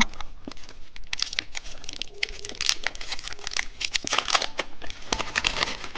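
A crinkly gold candy wrapper being torn open and unwrapped by hand, with dense, irregular crackling and rustling throughout.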